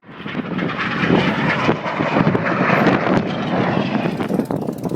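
Red Arrows BAE Hawk T1 jet passing overhead, its turbofan roar building quickly at the start, loud and steady through the middle, easing slightly near the end.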